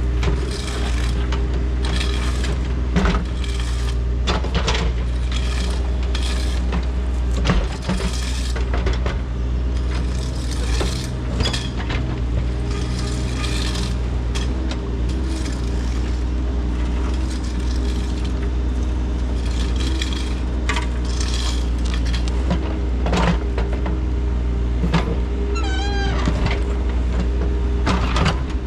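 Heavy machine engine running steadily under load, with repeated clanks and scrapes of digging or moving material, and a brief squeak near the end.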